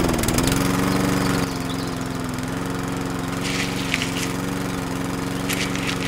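A small motor starts and runs with a steady, even hum; its pitch dips briefly as it comes up to speed. Short hissing bursts come in around the middle and near the end.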